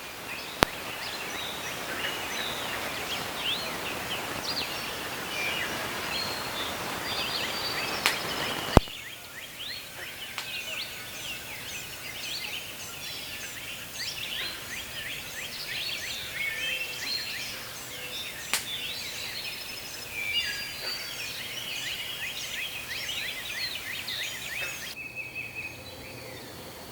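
Morning birdsong: many birds chirping and calling over a steady rush of creek water, the water louder in the first third. A few sharp clicks stand out.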